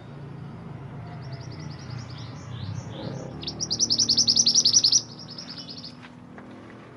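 A small songbird, the mantenan gunung, singing: a few high sliding notes, then a fast, loud run of chirps that stops abruptly about five seconds in.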